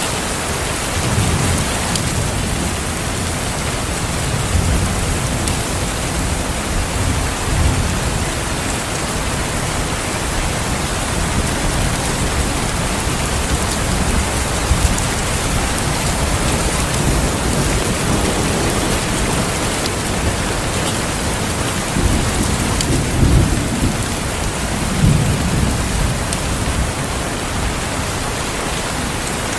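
Steady heavy rain with rolling thunder rumbling low beneath it, swelling in the first third and again strongly near the end.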